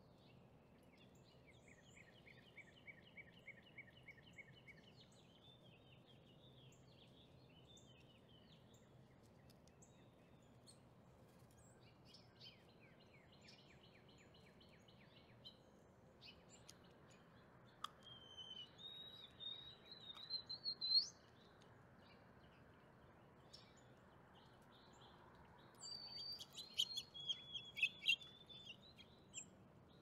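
Faint birdsong over low hiss: short trills and chirps, a rising whistled call a little past the middle, and a busier run of calls near the end.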